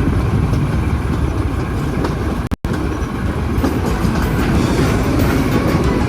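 Train running on the rails, a loud, steady noise heaviest in the low end. The sound cuts out for a split second about two and a half seconds in.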